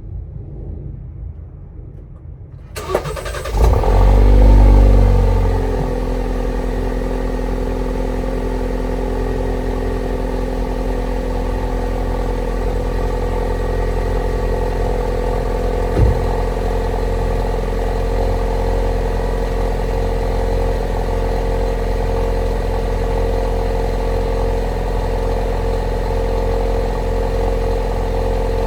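Alfa Romeo Giulia Veloce 280's 2.0-litre turbocharged four-cylinder petrol engine starting from cold. It cranks briefly about three seconds in, catches and flares loud for about two seconds, then settles into a steady cold idle. A single sharp click comes about sixteen seconds in.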